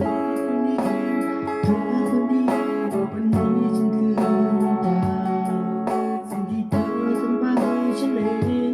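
Guitar playing a melody of picked notes, some bent or slid in pitch, over ringing sustained notes.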